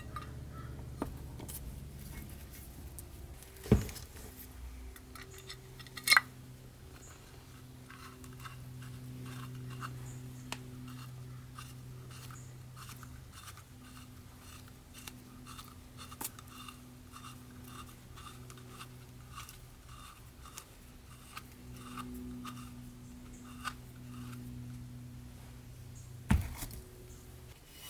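Small metal parts being handled in a workshop: three sharp metal-on-metal knocks, and between them a run of light ticks and clicks over a faint steady hum.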